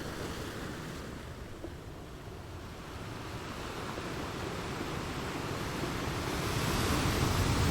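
Ocean surf: a steady wash of waves that dips a little and then swells steadily as a wave builds toward breaking.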